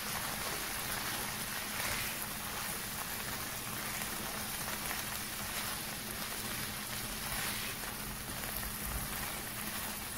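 Black beans and diced onion sizzling steadily in a stainless-steel frying pan, with a few soft scrapes as a spatula stirs them.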